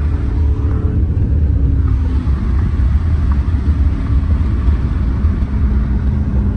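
Car engine and exhaust rumbling loudly and steadily, with the engine note shifting in the first two seconds and a steady hum setting in about five seconds in.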